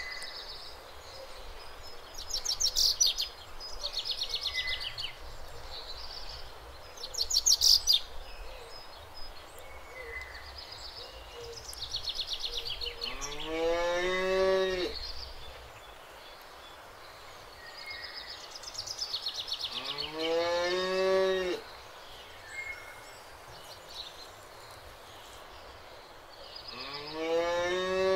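Domestic cattle mooing: three long, drawn-out moos that rise and then fall in pitch, about halfway through, about two-thirds through and at the very end. Short, rapid, high bird chirps come between the moos, loudest in the first third.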